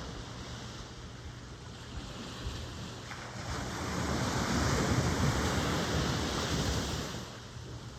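Ocean surf: a wave swells up and washes in about halfway through, then fades near the end, over a low steady rumble of the sea.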